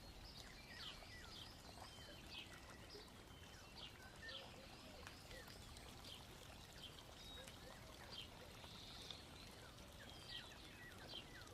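Near silence: faint background hiss with many scattered, faint high chirps and ticks.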